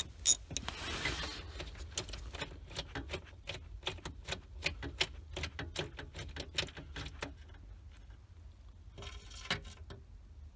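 Hand socket ratchet clicking in a steady run of several clicks a second as it turns out a steering-column mounting bolt through an extension. The clicking stops about three-quarters of the way through, followed by a brief rustle near the end.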